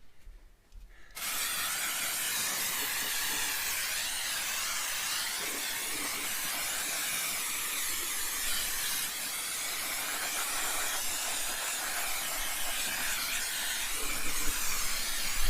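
Aerosol can of brake cleaner spraying in one long continuous hiss that starts about a second in.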